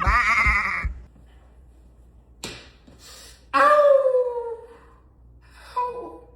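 Animal calls: a loud wavering cry at the start, then after a sharp click a longer call that falls in pitch, the loudest part, and a shorter call near the end.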